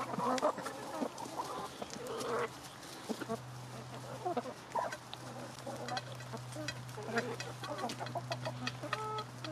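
Backyard chickens clucking in short, overlapping calls as they feed, with quick sharp clicks of beaks pecking at the food, thickest in the second half.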